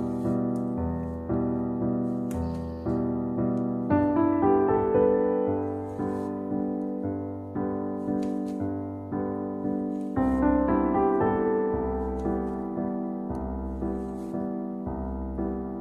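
Background piano music: soft notes struck about every three-quarters of a second and left to fade, over a bass line that changes about four and ten seconds in.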